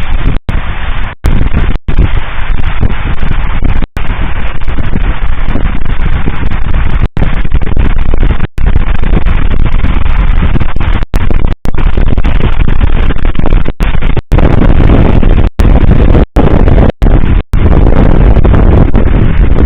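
Fireworks salute booming and crackling, so loud that the microphone is overloaded into a continuous low rumble. The audio drops out for an instant many times.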